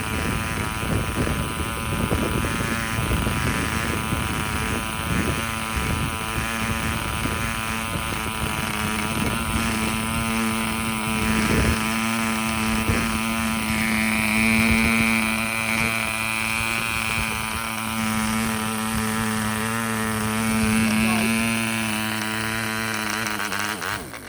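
P.M.C. Imp 0.6 cc model diesel engine, a two-stroke compression-ignition engine, running steadily on a 7x4 nylon propeller: an even buzzing drone that holds its pitch. The sound falls away right at the end.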